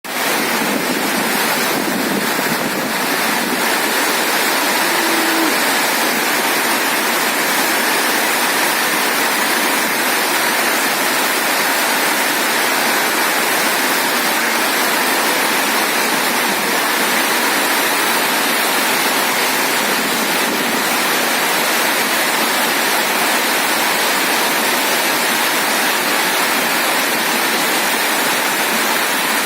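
Heavy rain pouring down in a windstorm, a steady loud hiss.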